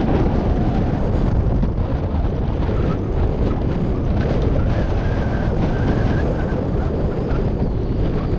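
Strong wind buffeting the microphone, a steady low rumble with no let-up.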